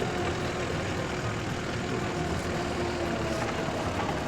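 Skid steer engine running steadily, with a faint steady whine over the engine noise.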